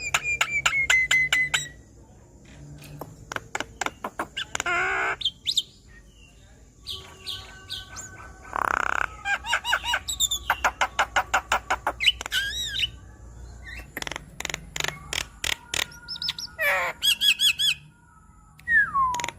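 Javan myna singing a varied song: rapid chattering trains of clicks, whistled notes that slide downward, and a harsh squawk about nine seconds in.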